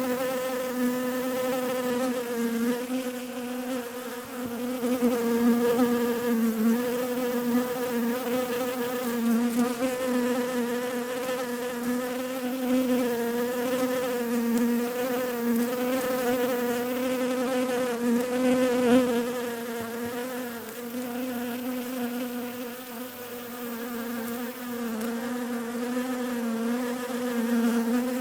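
Bees buzzing: one continuous, steady wingbeat hum that wavers gently in pitch and loudness, dipping slightly about four-fifths of the way through.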